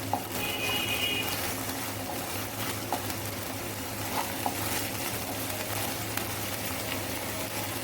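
Chopped onions sizzling as they fry in hot oil in a kadhai, stirred with a spatula that clicks against the pan a few times.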